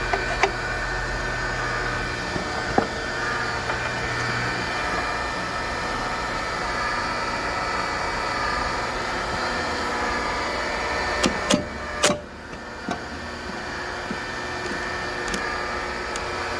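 Single-phase electric hydraulic log splitter with a gear pump, running with a steady hum under pressure. About eleven seconds in, a few sharp cracks come as the log splits under the blade, with another crack near the end.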